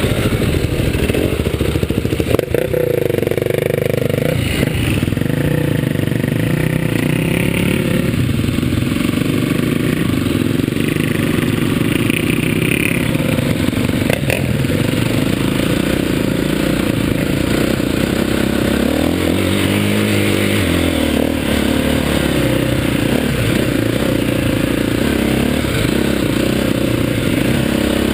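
Dirt bike engine running while the bike is ridden off-road, heard close up from the bike itself, its pitch rising and falling as the throttle opens and closes. Two sharp knocks stand out, one a couple of seconds in and one about halfway through.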